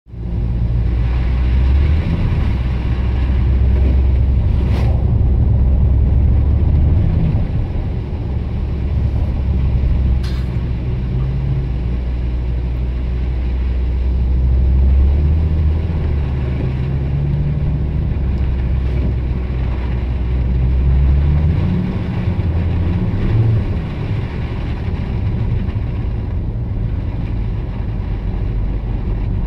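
Car engine droning low, heard from inside the cabin while driving; its pitch shifts up and down several times. Two sharp clicks come about five and ten seconds in.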